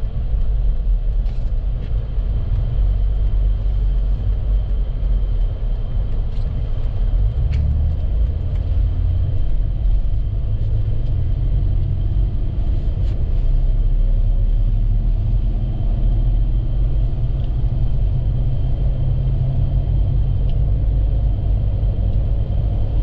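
Steady low rumble of a vehicle driving on the highway, engine and road noise, with a faint steady high whine and a few light ticks.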